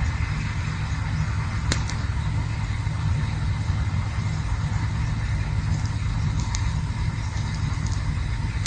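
Campfire burning, with a steady low rumble under an even hiss and a few sharp crackles, one clear pop a little under two seconds in.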